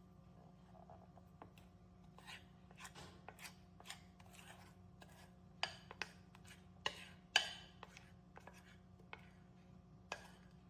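Scattered taps and clicks of kitchen utensils and dishes being handled, with a few louder knocks in the middle and one near the end, over a faint steady hum.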